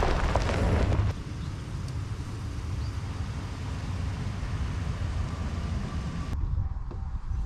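Rain noise for about a second, then cuts to a truck driving: a steady low rumble of engine and road noise.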